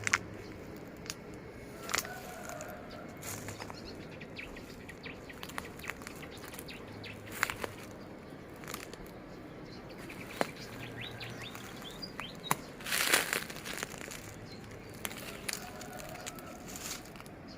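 Birds chirping outdoors: scattered short, sharp calls over steady background noise, with a louder rustling burst about thirteen seconds in.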